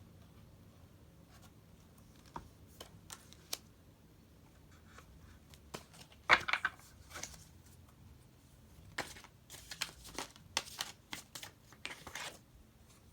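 Tarot cards being handled: scattered soft clicks and short papery swishes as cards are drawn, shuffled and laid down, busier in the second half.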